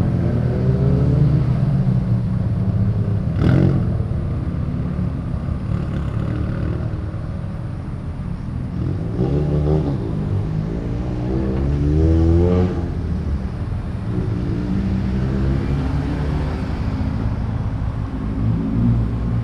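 Modified car engines rumbling at low speed as cars roll out one after another. Engines rev briefly about nine seconds in and again about twelve seconds in, and there is a single sharp pop about three and a half seconds in.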